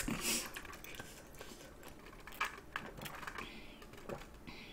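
Close-miked mouth sounds of eating spicy braised chicken feet: many small wet clicks and crunches from chewing and sucking the bones and cartilage, then short sips through a straw near the end.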